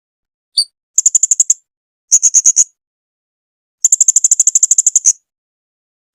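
Blue-crowned hanging parrot (serindit) calling: a single short chirp, then three trills of rapid high-pitched notes, the third the longest at over a second.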